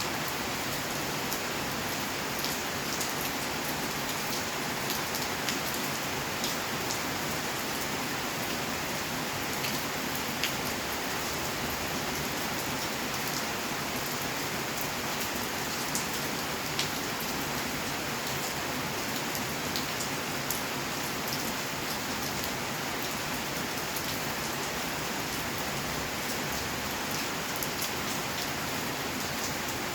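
Steady rainfall: a dense, even hiss of rain on surfaces, with scattered louder drips and taps standing out from it.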